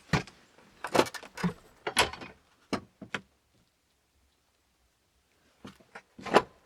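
Wooden knocks and clunks as the freshly shaped stick handle is handled: about six sharp knocks in the first three seconds, a gap, then a few more near the end.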